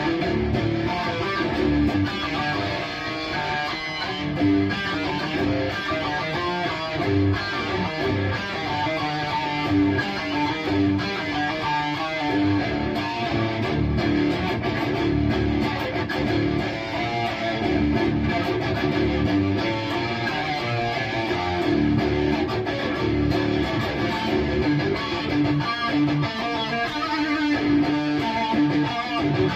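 Electric guitar played through a Bogner Uberschall preamp with high-gain distortion, continuous riffing with repeated low, punchy notes.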